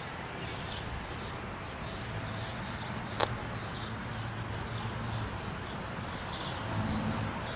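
Outdoor ambience of birds chirping in short, quickly repeated high calls over a steady low hum, with one sharp click about three seconds in.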